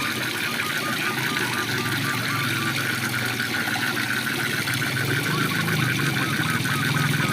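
Waterfall rushing steadily, with frogs calling in a fast, even series of short notes over it and a low pulsing croak that grows louder in the second half.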